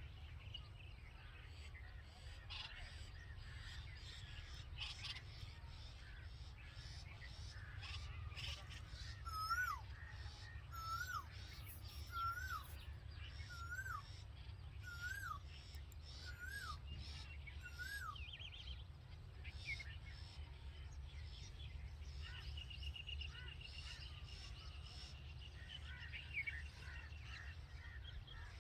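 A bird calling over a steady low rumble: one short whistled note that rises and then drops, repeated seven times about every second and a half. A fast chattering trill follows later.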